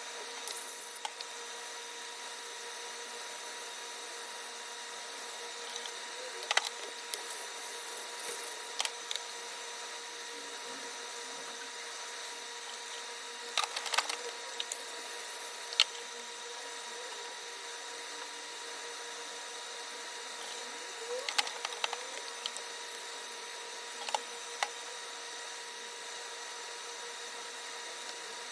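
Steady background hum with a few fixed tones, broken by scattered light clicks and taps that come in small clusters every few seconds.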